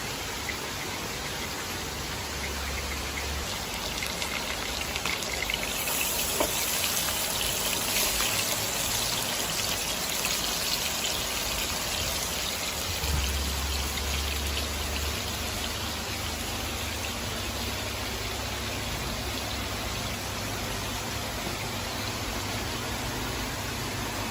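Beef steak sizzling in a frying pan: a steady hiss with faint crackles, brighter and louder for several seconds from about six seconds in.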